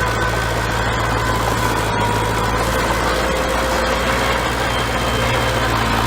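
Bulldozer's diesel engine running steadily at an even speed, with a constant low hum and a steady whine above it.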